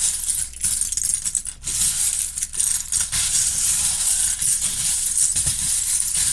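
Loose plastic LEGO bricks rattling and clinking together continuously, as when a pile of pieces is stirred or shaken.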